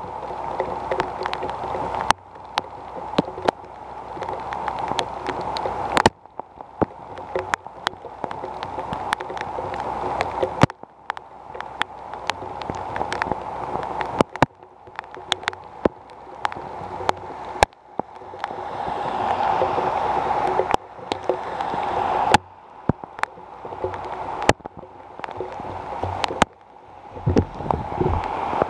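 Heavy rain pouring, with drops clicking sharply close to the microphone; the hiss swells and cuts back abruptly every few seconds. A car drives past on the wet road about two-thirds of the way through, its tyres adding a brighter hiss, and there are low handling bumps near the end as the camera is moved.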